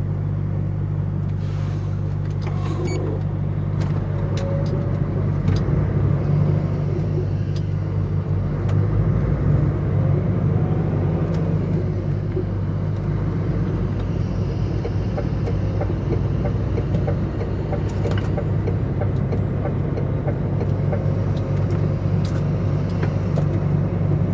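Inside the cab of a DAF XF105.460 truck on the move: a steady low drone of its PACCAR MX six-cylinder diesel and road noise, pulling a laden trailer, with a few light ticks and rattles.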